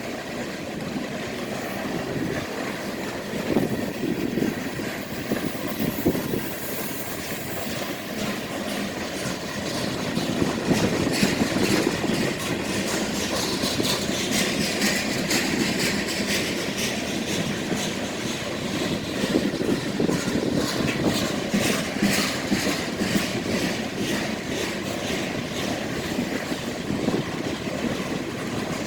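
BNSF grain train of covered hopper cars rolling past on the rails. The rumble grows a little louder about ten seconds in, with a steady clicking of wheels over rail joints.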